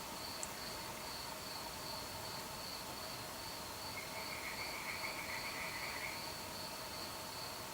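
Night chorus of crickets chirping steadily in a high, pulsing tone over fainter, lower insect tones. About four seconds in, a rattling trill from another animal joins for about two seconds.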